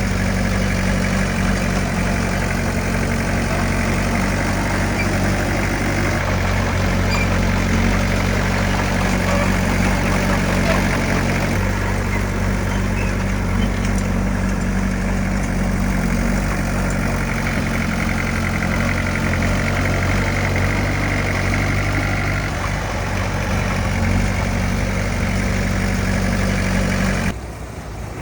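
Heavy earthmoving machine's diesel engine running steadily with a deep, even hum. The level drops suddenly near the end.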